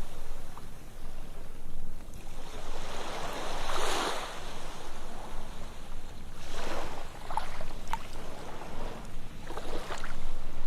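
Ocean waves breaking and washing onto a sandy beach, surging about every three seconds over a low steady rumble of surf.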